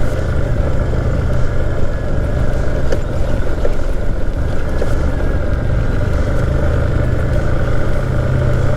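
Motorcycle engine running steadily under way on rough off-road ground, with a dense low rumble.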